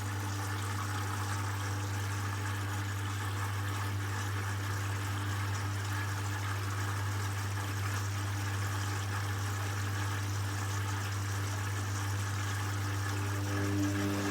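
Hoover washing machine during its final rinse: water rushing through the machine over a steady electric hum.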